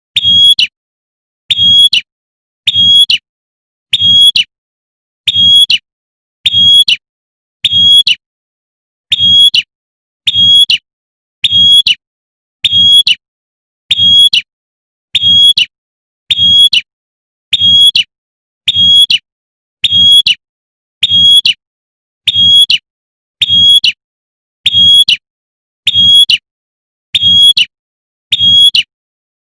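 Female prinia (prenjak) giving its sharp 'tembakan' call over and over, one short high call about every second at a perfectly even pace, like a looped lure recording for calling in males.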